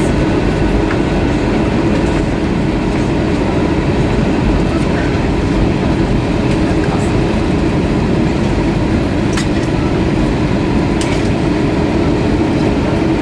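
Steady cabin noise inside an Airbus A320-232 airliner in flight: the rush of air over the fuselage and the drone of its IAE V2500 engines, with a few faint steady hums under it.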